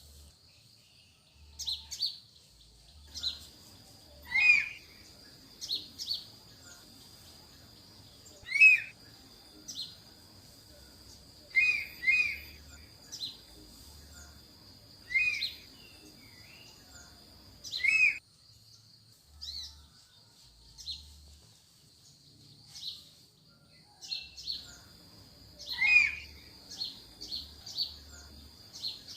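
Wild mountain-forest birds calling: short, sharp chirped calls repeated every second or two, some louder and closer than others, over a steady high-pitched drone that fades out for a few seconds in the middle.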